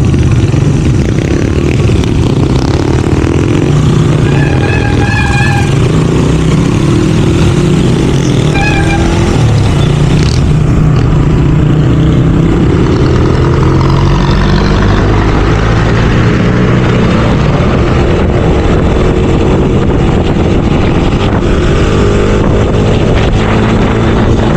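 Motorcycle engine running steadily while riding, its pitch shifting with speed, with two short beeps, about five and nine seconds in.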